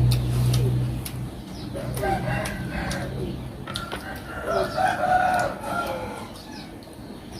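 A rooster crowing twice, each crow a long pitched call lasting over a second, with a few sharp clicks scattered through. A low steady hum fades out about a second in.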